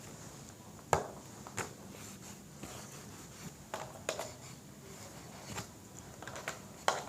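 Scattered light taps and clicks of small objects being handled and set down, about six in all, the first about a second in the loudest.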